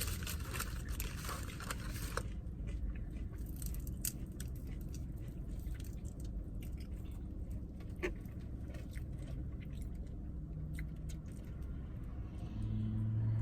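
Chewing and small mouth clicks from someone eating chicken wings, over a steady low rumble. A brief rustle comes in the first two seconds, and a low hum rises near the end.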